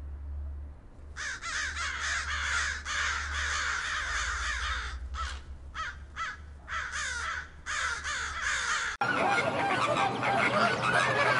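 From about a second in, a flock of crows calls in a dense run of caws with short breaks. About nine seconds in this cuts off sharply and a flock of flamingos takes over, honking and grunting all together, a little louder.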